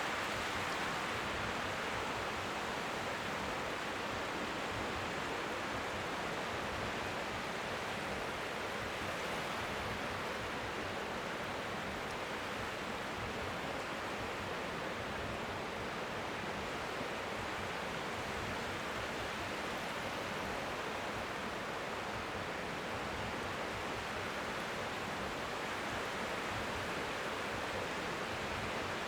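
Strong sea wind and faint waves lapping on the shore, blending into a steady, even hiss like white noise.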